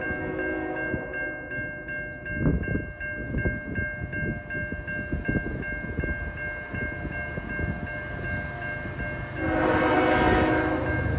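A CN train passing a level crossing: the crossing bell dings steadily about three times a second, the wheels clatter over the rails from about two seconds in, and the locomotive horn sounds briefly at the start and again, louder, near the end.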